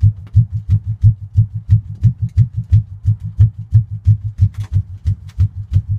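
1985 Chevy C10 pickup's engine running through its new exhaust, a heavy, even throb about three pulses a second.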